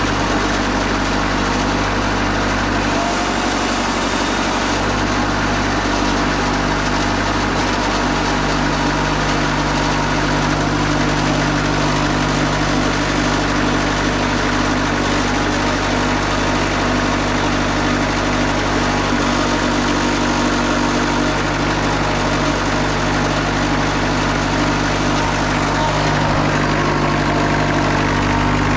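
Wood-Mizer LT40 Super Hydraulic bandsaw mill's engine running steadily, its note shifting a couple of times in the first several seconds.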